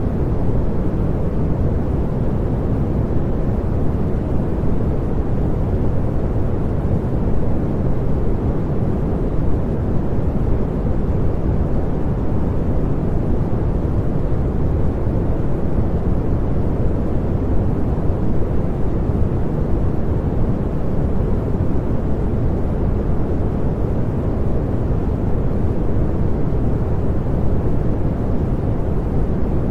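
Synthetic pink noise: a constant, even rush with no changes, deep-sounding, with most of its weight in the low end and little high hiss.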